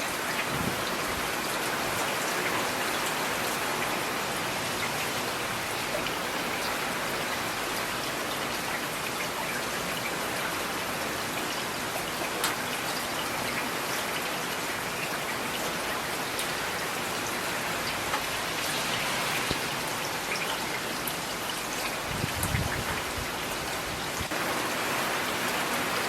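Steady rain falling, an even hiss with occasional sharper drips. A brief low rumble comes a few seconds before the end.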